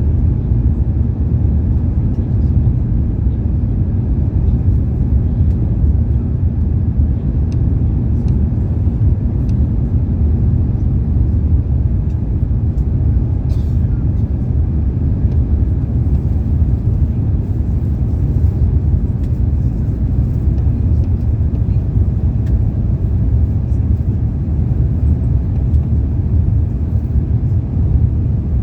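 Steady low rumble of an Airbus A350-900's jet engines and airflow heard inside the passenger cabin.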